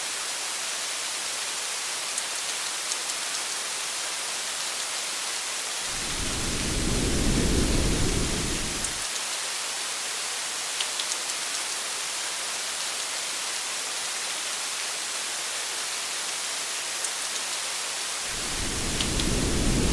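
Steady rain pattering on a parked car, with a few sharper drop ticks. A low rumble of thunder swells and fades over about three seconds, a few seconds in, and a second rumble begins near the end.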